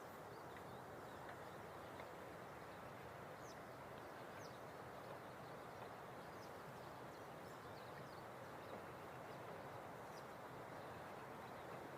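Faint outdoor ambience: a steady, even rushing hiss, with a few brief, faint bird chirps here and there.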